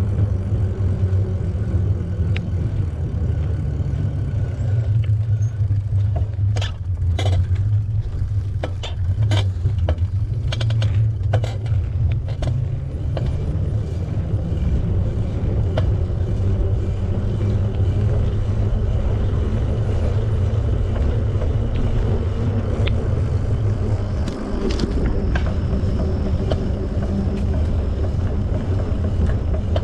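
Steady low rumble of wind on the microphone and rolling noise from a bicycle ride, with a run of irregular sharp clicks and rattles about six to thirteen seconds in.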